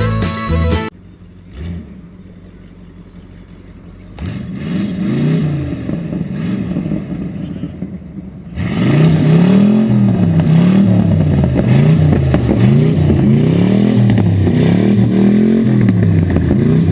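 Background music cuts off about a second in. From about four seconds an engine is revved, and after about eight seconds it is revved repeatedly and louder, its pitch rising and falling roughly once a second.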